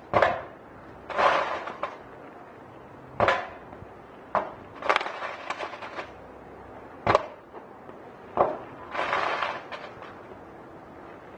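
Fireworks bursting overhead: a run of sharp bangs, some with crackling trails, about ten in all, with the loudest, sharpest bang about seven seconds in.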